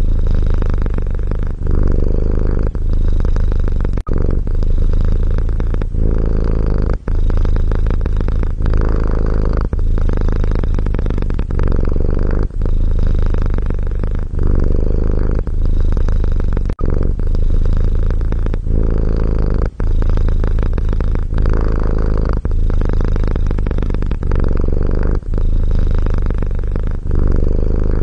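Domestic cat purring steadily in a loud, continuous low rumble, with a short break every couple of seconds.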